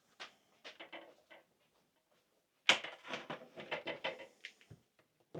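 Clicks and plastic clatter from hands working on the opened PlayStation 5's internals. A few light clicks come first, then a louder, denser run of clicking and rattling from about a third of the way in.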